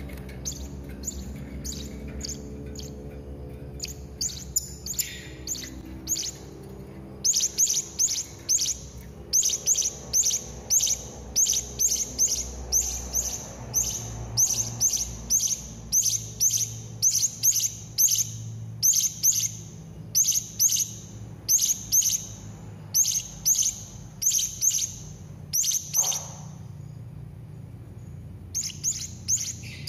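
Hanging parrot (serindit) calling: a long run of high, thin, sharp chirps in quick clusters. They are fainter at first, then loud and regular about twice a second from about seven seconds in, with a brief pause near the end. A low steady hum runs underneath.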